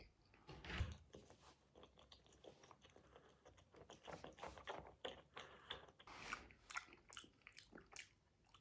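A person chewing and biting gummy candy close to the microphone: many small, irregular crunching and clicking mouth sounds, with a heavier bite about a second in.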